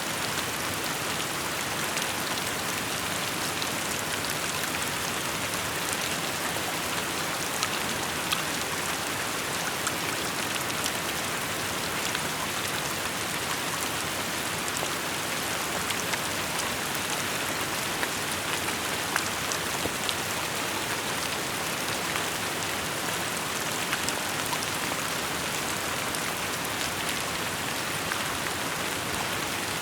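Steady rainfall, an even hiss of rain on surfaces dotted with many individual drop ticks.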